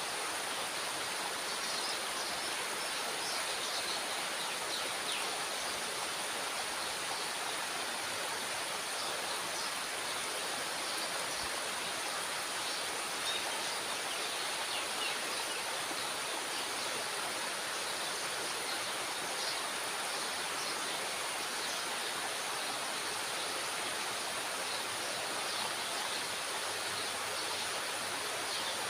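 Steady rush of water pouring through a dam's spillway gate, an even roar with no change in level.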